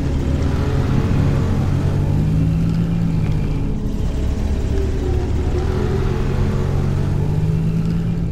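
Monster truck engine sound effect running with a low, steady rumble that rises and falls in pitch a couple of times.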